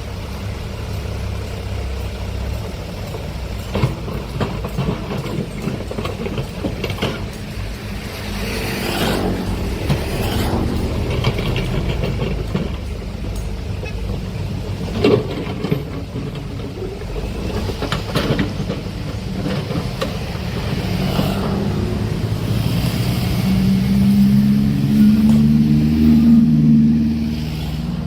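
Excavator's diesel engine running under load, with several sharp metallic knocks and clanks from the working machine. Near the end the engine revs up louder, then drops back.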